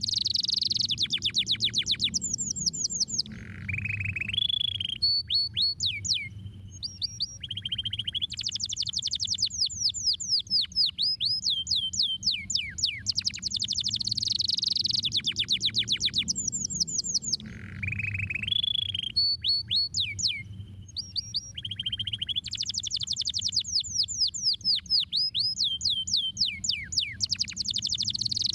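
Domestic canary singing: fast trills of steeply falling notes, alternating with short lower rolls and repeated single notes. The same song sequence comes round about every fourteen seconds, over a faint low background rumble.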